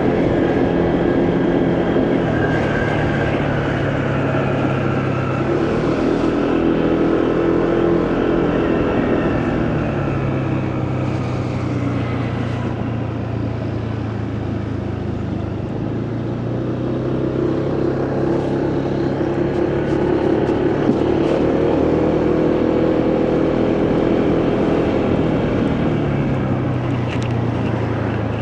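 Motorcycle engine running while riding, its pitch rising and falling several times as the throttle opens and eases, over a steady rush of road and wind noise.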